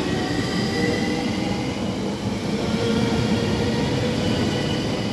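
SNCB AM08 Desiro electric multiple unit passing close by: a steady rumble of wheels on the rails, with several steady whining tones over it.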